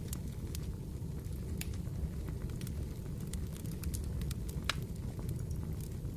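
Fireplace crackling: irregular sharp snaps and pops over a steady low rumble, with one louder pop near the end.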